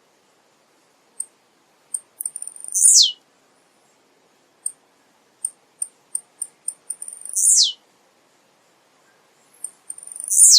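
Male blue-black grassquit (tiziu) singing: three times, a run of short, very high ticks leads into its loud call, a sharp note falling steeply in pitch.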